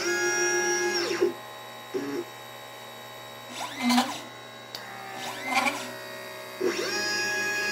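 Stepper motors of a LitePlacer pick-and-place machine whining as the placement head moves between parts. A steady whine lasts about the first second. Short buzzes and quick up-and-down pitch sweeps follow, then another steady whine starts near the end.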